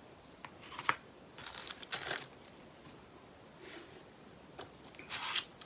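Small plastic bags of diamond painting drills crinkling in several short bursts as they are handled.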